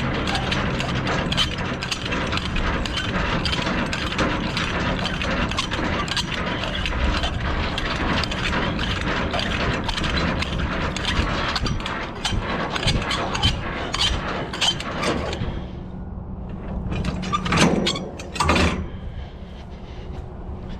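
Semi-trailer landing gear being hand-cranked, its gears clicking rapidly and evenly over a steady low hum. The cranking stops about three quarters of the way through, and two loud metal knocks follow a second apart.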